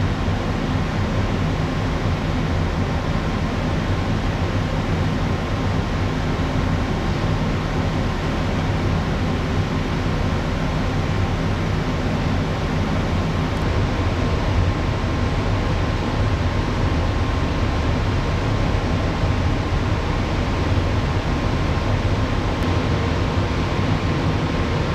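Steady hum of a moored ship's onboard machinery and ventilation heard inside the ship: a constant low drone with a faint steady whine and an even rush of air.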